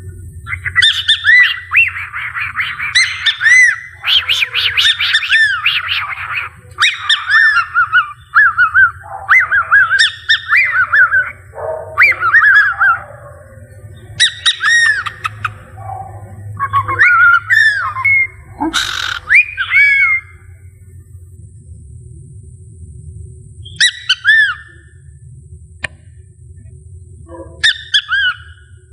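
Cockatiel whistling a rapid string of short, rising-and-falling notes for about twenty seconds, then pausing, with a few short whistles near the end.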